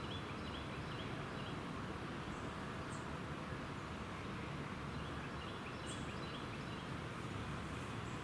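Steady outdoor background noise with a small bird chirping in short quick runs of calls, once near the start and again about five seconds in.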